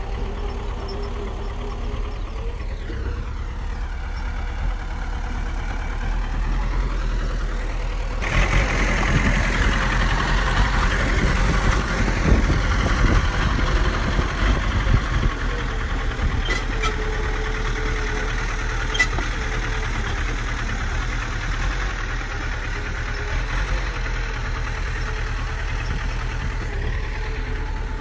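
Bulldozer's diesel engine running steadily, then louder from about eight seconds in as it is throttled up to work, easing back after a few seconds.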